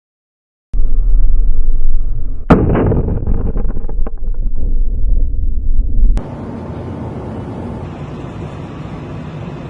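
A heavy low rumble, then a sharp blast about two and a half seconds in, followed by crackling. About six seconds in it cuts abruptly to a steady, quieter even noise.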